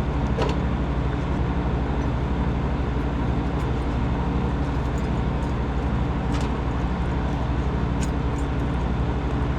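Refrigeration condensing unit running steadily on R407C after a compressor replacement: a constant low hum under an even whoosh of fan noise, with a few faint clicks.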